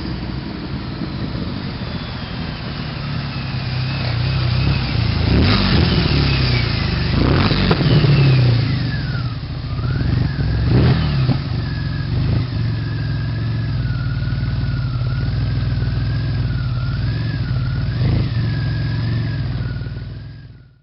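Turbocharged DeLorean's PRV V6 with a custom stainless steel tuned exhaust, idling and being blipped several times, each blip rising and falling quickly. A thin high whistle glides down over the first several seconds, then wavers. The engine sound cuts off near the end.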